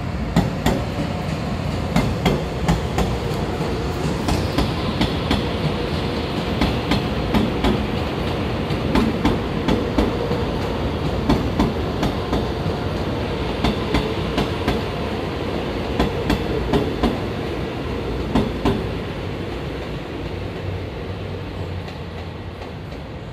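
Taiwan Railways electric commuter train running past on the tracks below: a steady rumble with wheels clacking over rail joints in a quick, irregular run of knocks. The sound fades gradually over the last few seconds as the train draws away.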